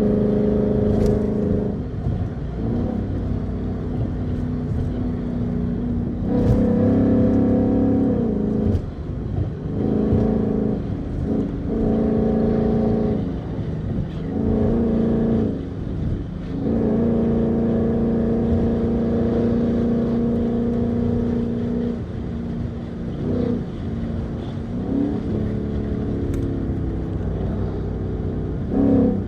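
The 2015 Mustang GT's 5.0-liter V8 running hard, holding steady high revs for several seconds at a time, with short lifts and changes in revs in between.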